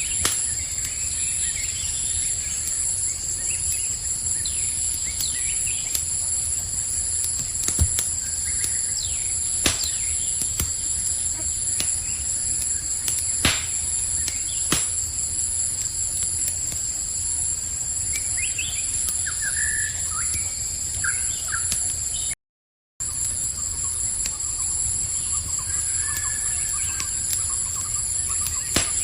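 Campfire crackling with a few sharp pops, under the steady high trilling of crickets. Short bird chirps come in twice in the second half. The sound cuts out completely for about half a second a little past the middle.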